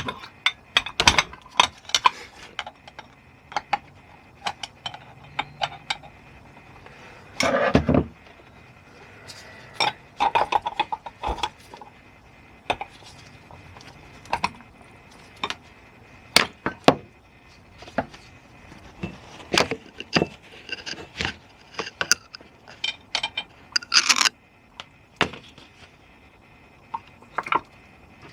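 Metal screwdriver clinking, tapping and scraping against a Mobylette AV7 moped engine's crankcase as the heated case halves are prised apart: irregular sharp clicks with a couple of longer scrapes.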